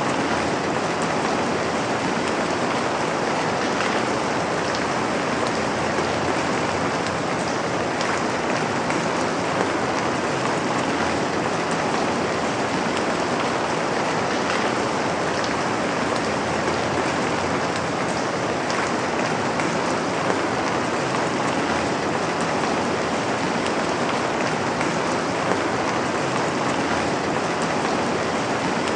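Steady rainfall, a dense even hiss of drops with faint individual drop ticks now and then.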